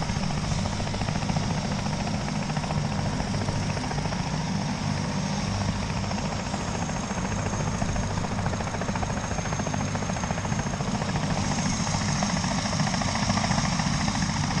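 Helicopter running, with the steady rapid chop of its rotor blades and a high turbine whine above it. It grows slightly louder over the last few seconds.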